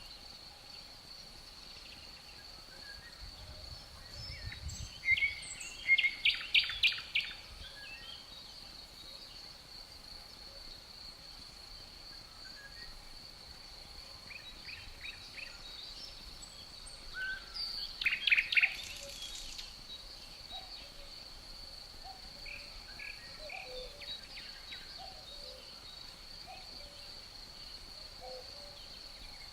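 Forest ambience: crickets keep up a steady high-pitched trill throughout. A songbird sings two short bursts of quick notes, about five and eighteen seconds in, the loudest sounds here, and faint low calls come now and then in the last third.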